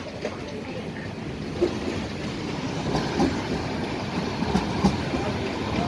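Train running past on the station tracks, wheels clattering over the rails, growing gradually louder.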